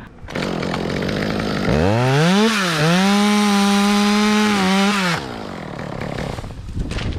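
Two-stroke chainsaw running, then throttled up to a high, steady scream, with a brief dip in pitch as it bites. It is let back down to idle about five seconds in.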